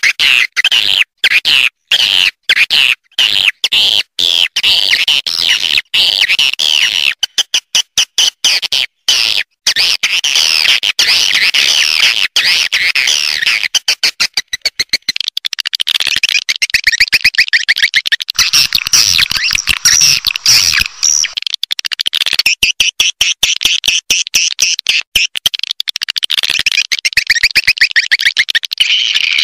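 Swiftlet lure call recording: dense, rapid twittering chirps from many swiftlets. For the first ten seconds or so it stutters on and off with short gaps, then runs more continuously.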